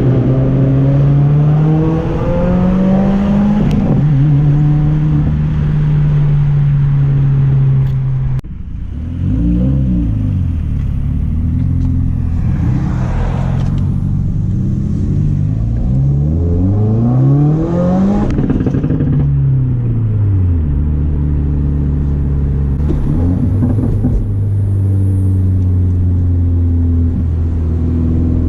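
Car engine accelerating hard, its pitch climbing steeply several times as it revs through the gears and falling back as it eases off, with steady cruising between. It breaks off briefly about eight seconds in.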